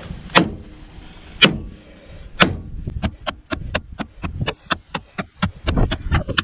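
Small, heavy full-tang knife blade chopping repeatedly into a car's sheet-metal roof, each blow a sharp metallic whack. Three strikes come about a second apart, then from about three seconds in a fast run of about four strikes a second.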